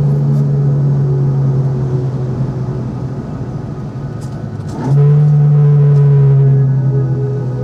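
1968 Alfa Romeo GT 1300 Junior's twin-cam four-cylinder engine running at a steady pitch while driving, easing off slightly. About five seconds in it sweeps up quickly and runs louder.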